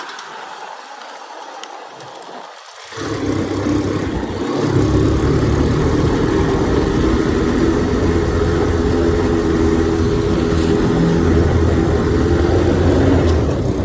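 Faint hiss, then a motorcycle engine comes in suddenly about three seconds in and keeps running steadily, loud and low.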